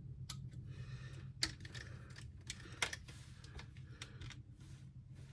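A few sharp, scattered clicks and light taps of small plastic and metal RC parts being handled, over a steady low hum.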